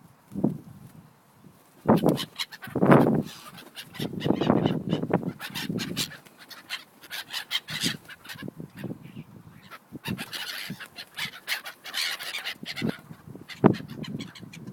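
Geese honking in irregular bursts of calls.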